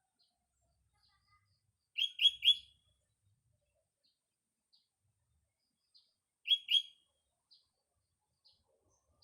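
Sooty-headed bulbul (kutilang) singing: a loud phrase of three quick notes about two seconds in and a two-note phrase a little past six seconds, with faint short chips in between.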